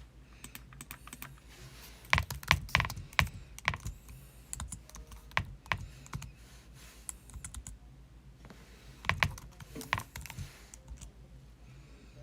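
Kitchen knife slicing through a rolled log of puff pastry and tapping down onto the cutting board, in irregular clusters of sharp taps. The loudest clusters come about two seconds in and again around nine seconds.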